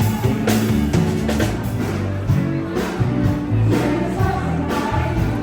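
Band music with a singer over a bass line and a steady beat.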